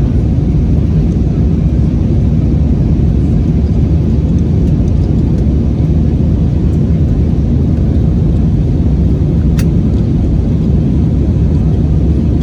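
Steady low rumble of an Airbus A320-232's IAE V2500 engines and the airflow, heard from inside the passenger cabin, with one brief click near the end.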